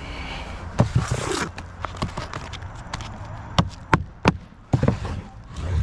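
A string of irregular sharp knocks and taps, about nine in all, with a short scraping rustle about a second in.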